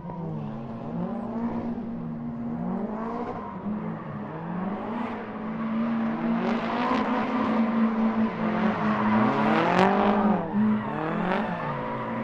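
Drift car engines revving hard up and down over and over as the cars slide, with tyre screech building from about six seconds in and a sharp crack about ten seconds in.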